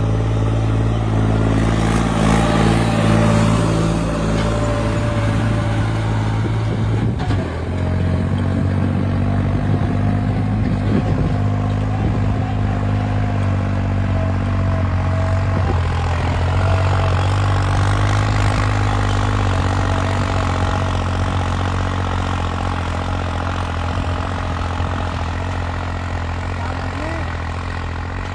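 Tractor diesel engine running steadily under load while pulling a 20-disc harrow. Its note dips and shifts briefly about seven seconds in.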